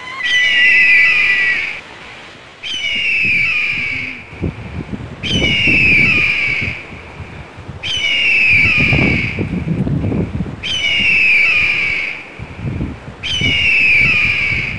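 A bird-like call repeating at a steady pace: a run of quick, high, falling whistles lasting about a second and a half, coming again every two and a half seconds or so. A low rumbling noise rises under it in the middle and again near the end.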